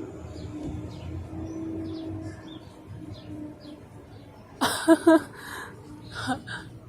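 Birds chirping faintly outdoors, short high chirps scattered through, over a faint steady hum. About five seconds in comes one loud two-part call, with a smaller sound just after.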